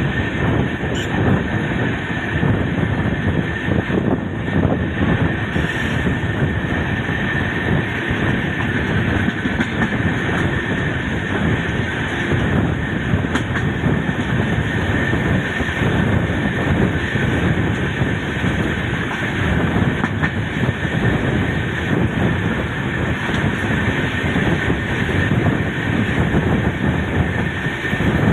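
Paschim Superfast Express train running: a loud, continuous rumble of wheels on track with a steady high tone over it.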